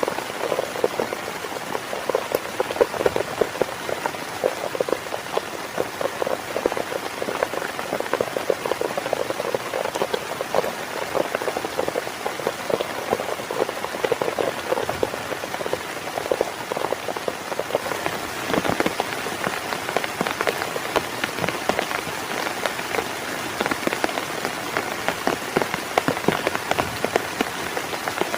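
Heavy rain drumming densely on a tent, a steady mass of drop strikes that turns brighter and higher-pitched about two-thirds of the way through.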